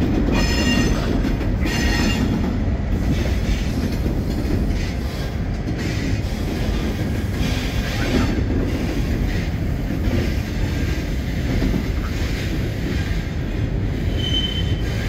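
Norfolk Southern SD70ACU diesel-electric locomotives rolling across a steel girder bridge: a steady low rumble of engines and wheels on the rails. Short high-pitched wheel squeals come in the first few seconds and once more near the end.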